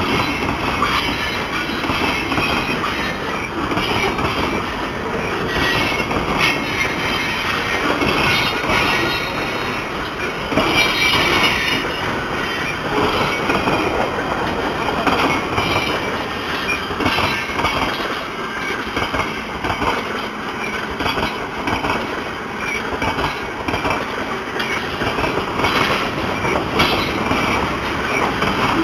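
Freight cars of a long mixed manifest train rolling slowly past at close range: steel wheels clattering steadily over the rails, with brief high wheel squeals now and then.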